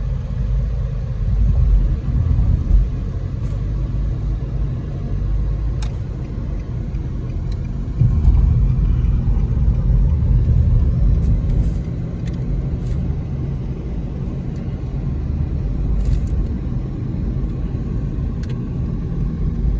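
Steady low rumble of a car or road traffic, growing louder for a few seconds about eight seconds in.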